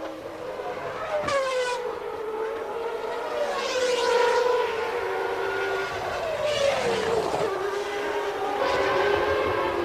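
Formula One race cars' high-revving engines, several in turn, each note falling in pitch as it passes or brakes, so the sound rises and drops about four times.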